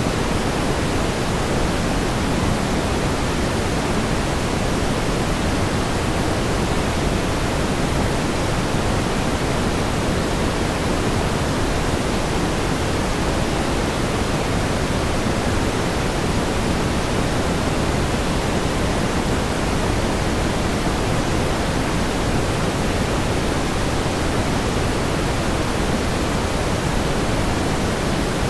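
Steady pink noise: an even, unchanging hiss, fuller in the low end than in the high.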